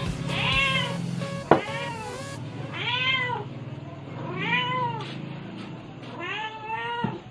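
A cat meowing repeatedly: four separate meows, each rising then falling in pitch, a second or two apart. A sharp click about a second and a half in.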